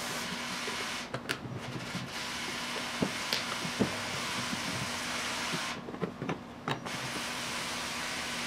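Steady hiss with a faint low hum, broken for about a second partway through, with a few light clicks and knocks of parts being handled.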